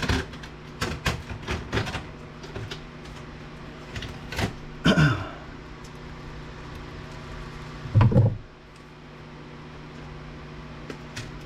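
Clicks and knocks of ribbon cables being unplugged and small circuit boards being handled while a DVD player is taken apart, with a heavier thump about eight seconds in. A steady low hum runs underneath.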